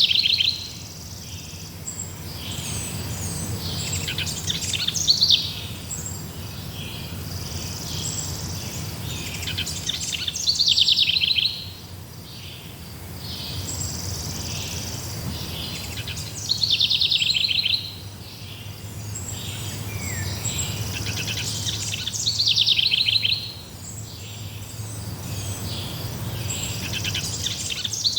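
Forest birds singing: one bird repeats a loud, rapid trilled phrase about every six seconds, with fainter chirps from other birds between and a low steady background noise.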